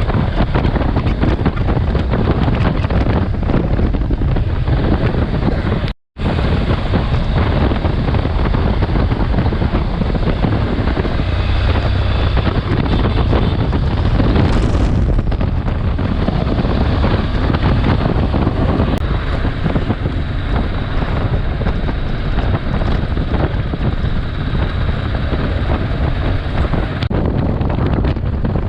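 Wind buffeting the microphone on a moving motorcycle, over the steady drone of the bike and the road. The sound cuts out for an instant about six seconds in.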